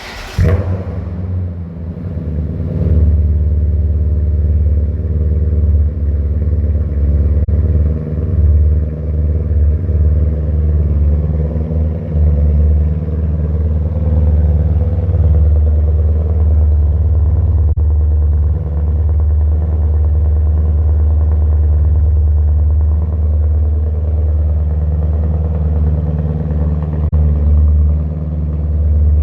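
BMW E39 M5's 4.9-litre V8 cold-starting: it fires right away with a sharp burst, builds over the first few seconds, then runs at a steady idle.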